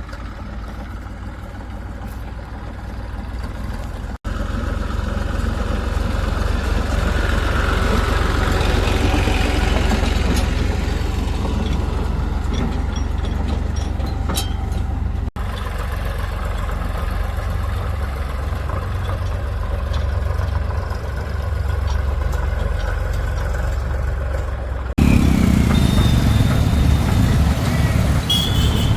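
Diesel engines of a backhoe loader and farm tractors running in mud, a steady low engine rumble that changes abruptly three times as the footage cuts between clips.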